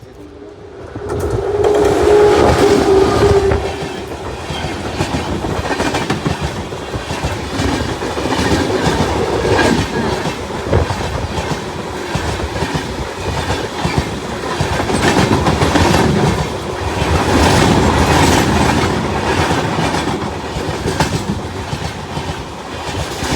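Fast passenger train running past, its wheels clattering over the rail joints over a continuous rumble. A short steady tone sounds about two seconds in.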